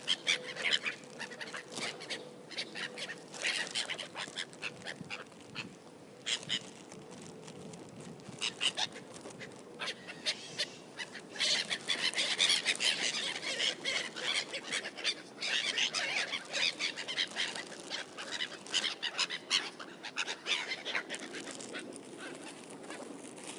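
A flock of gulls squabbling over scattered bread, many short squawking calls overlapping, busiest about halfway through.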